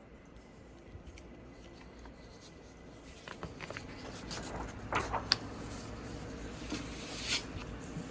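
Paper being handled and rustled, with a few light clicks and taps, getting busier from about three seconds in.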